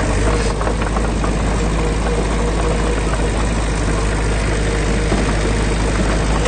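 Diesel engine of heavy earthmoving machinery running steadily, a continuous low drone with light clatter.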